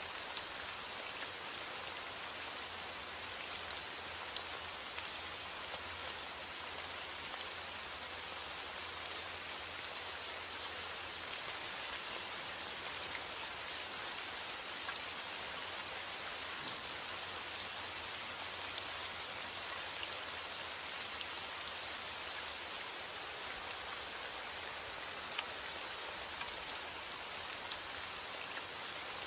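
Steady heavy rain falling, a dense even hiss with many small drop ticks on hard surfaces.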